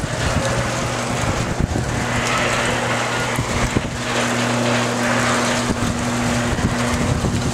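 A vehicle engine idling with a steady low hum, under a constant hiss of wind buffeting the microphone, with a few scattered clicks.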